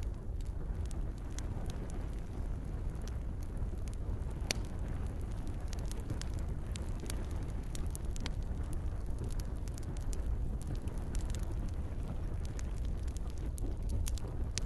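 Campfire crackling, with scattered sharp pops and one louder pop about four and a half seconds in, over a steady low rush and gentle rain.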